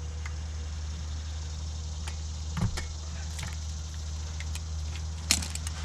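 A few sharp clicks and knocks from hand work on electrical wiring, loudest about two and a half seconds in and again near the end, over a steady low hum.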